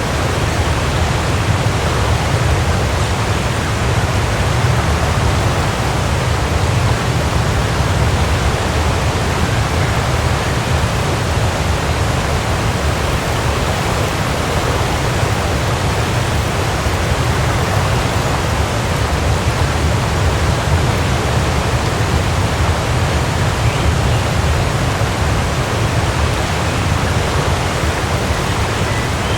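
Waterfall: a steady, unbroken rush of falling water with a strong low rumble.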